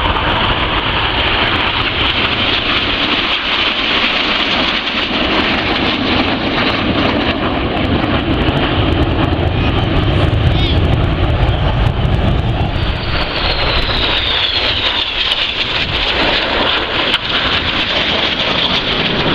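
Red Arrows' BAE Hawk T1 jets flying their display overhead: a steady jet engine noise, with a whine that falls in pitch a little past the middle as the jets pass.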